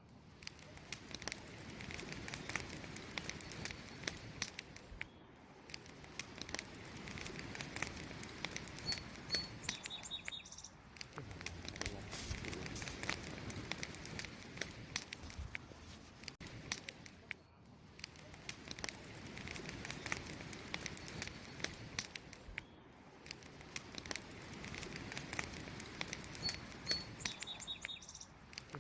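Wood campfire crackling and popping steadily, with dense sharp snaps over a low hiss. A small bird gives a couple of brief high chirps about a third of the way in, and again near the end.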